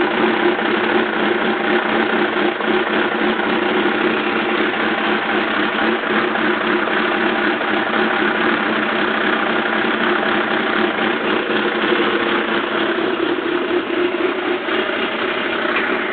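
Suzuki GSX-R750 motorcycle's inline-four engine idling steadily in cold weather.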